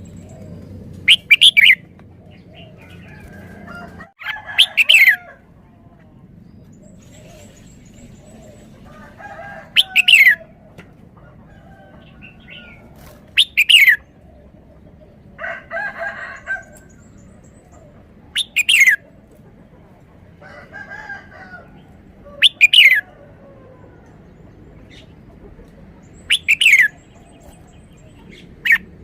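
Red-whiskered bulbul singing: loud, short phrases of a few quick, falling whistled notes about every four seconds, with softer calls in between.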